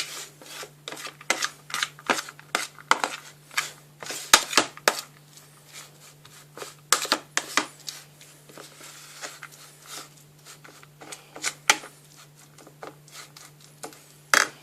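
A utensil stirring tuna and salad cream in its dish: irregular clinks and scrapes against the dish, some sharp and loud, others soft, over a faint steady hum.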